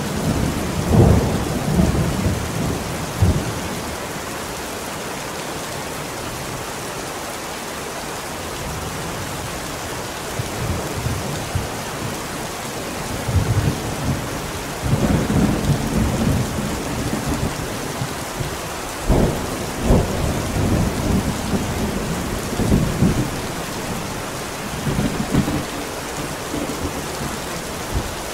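Steady rain falling, with thunder rumbling in bouts: once at the start, then again through the second half, with a couple of sharper claps around two-thirds of the way through.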